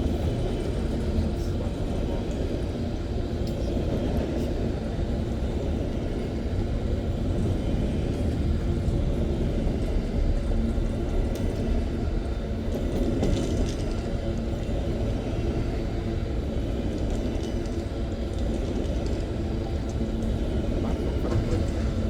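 Freight train rolling past, a steady rumble of wagons on the rails with a few faint high ticks.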